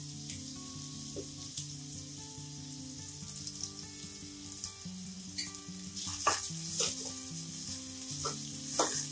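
Sliced onions, green chillies and fresh curry leaves sizzling in hot oil in a stainless steel kadai. From about six seconds in, a spatula stirs them, scraping the pan a few times.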